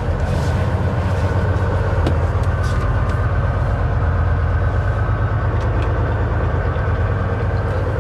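Semi-truck's diesel engine running steadily as the rig moves slowly, a low drone with a few faint ticks over it.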